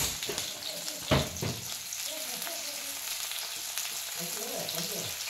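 Sliced onions sizzling steadily as they fry in hot oil in a metal kadai, with one sharp knock about a second in.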